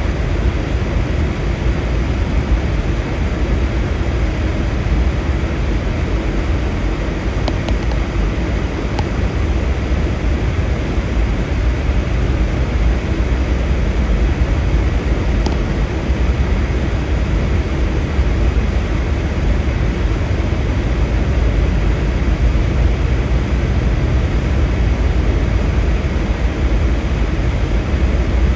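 Vehicle driving through a blizzard: a loud, steady low rumble with a hiss of wind and road noise, and a few faint ticks.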